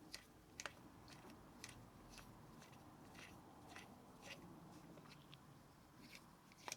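Near silence with faint, scattered small clicks and taps of a hand tool working the back plate screws of a small model glow engine.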